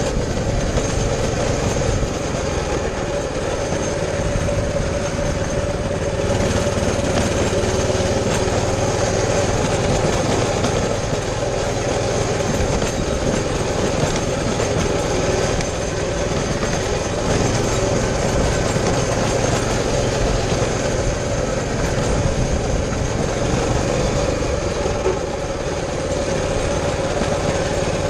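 Baja 200cc motorbike engine running steadily under way, its pitch holding mostly level with a few brief dips in loudness.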